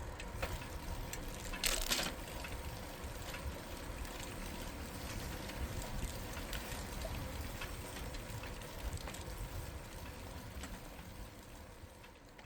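Ambient sound of a bicycle ride: a steady rumble and hiss of rolling with scattered light clicks and a short rattle about two seconds in, fading out near the end.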